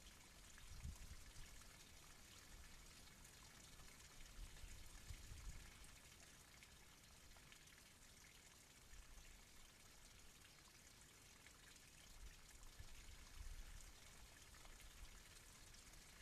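Near silence: a faint steady hiss with a few soft low rumbles.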